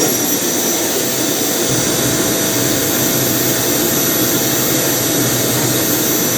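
Vacuum cleaner motor running steadily at full suction, a loud even rush with a constant high whine over it.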